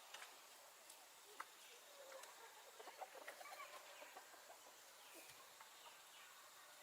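Faint chickens clucking: scattered short calls and small clicks, most of them bunched about two to four seconds in.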